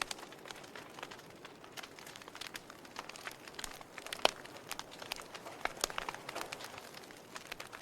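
Wood fire in a fireplace crackling, with irregular sharp pops over a low hiss; the loudest pop comes about four seconds in.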